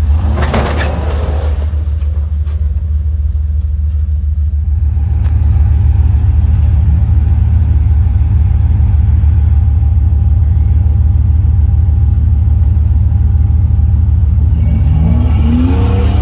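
Off-road vehicle engine running with a steady low rumble, growing louder about five seconds in as it pulls harder.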